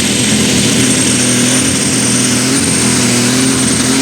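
Light super stock pulling tractor's engine running hard at high, steady revs, with a thin high whistle held over it.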